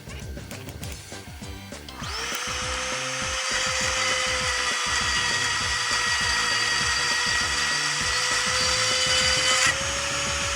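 Handheld electric power tool spinning up about two seconds in and running steadily with a whine and a grinding hiss. Near the end the hiss drops away and the motor's pitch rises slightly, as when the load comes off. Background music plays under it.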